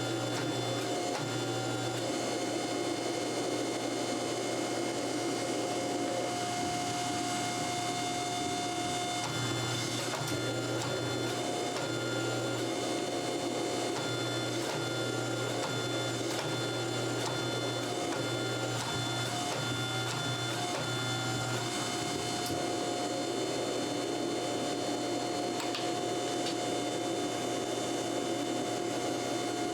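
A machine running steadily: a constant hum with a noisy rush and a few thin whining tones that drop out and come back from time to time.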